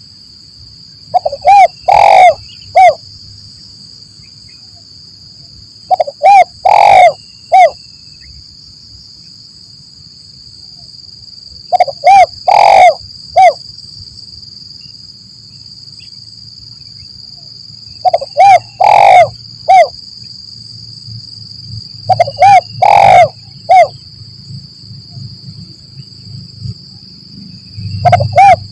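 Spotted dove (tekukur) cooing: short phrases of three or four deep coos, repeated every four to six seconds, five full phrases with a sixth starting at the end. A steady high-pitched whine runs behind the calls.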